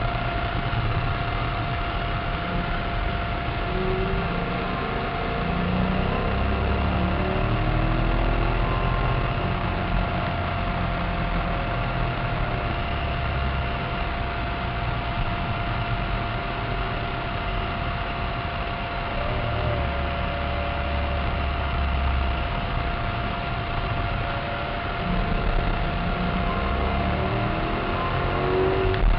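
Cabin sound of a Maserati Cambiocorsa's 4.2-litre V8 at speed on a race circuit, the engine note rising and falling through the lap over steady wind and tyre noise. A steady high whine runs underneath.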